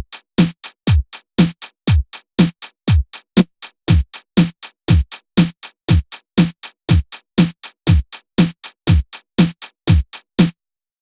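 Electronic drum-machine beat played back by Orb Composer: a deep kick about twice a second, its pitch dropping on each hit, with lighter snare or clap hits between. It cuts off abruptly shortly before the end.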